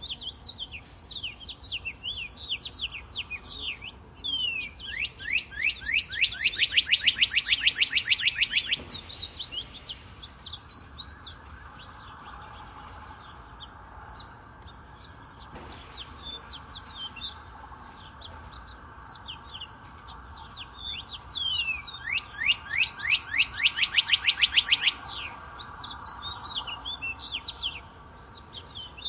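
Songbirds chirping, with a bird twice singing a loud, fast trill of repeated downward-sweeping notes lasting about three seconds each.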